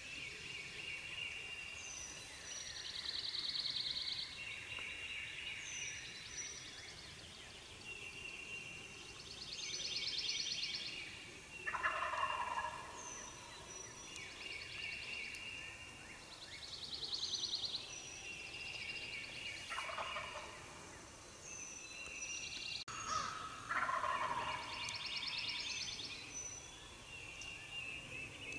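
Eastern wild turkey gobblers gobbling, a rattling call heard three times: about 12 s in, about 20 s in and about 24 s in. Songbirds sing throughout with repeated high whistles and trills.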